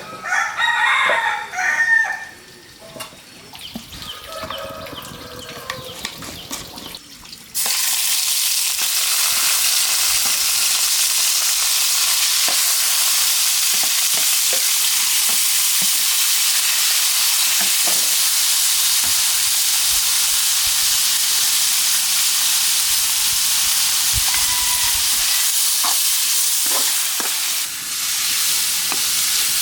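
Food frying in hot oil: a loud, steady sizzle that starts abruptly about seven seconds in, with a few light clicks over it. A rooster crows near the start.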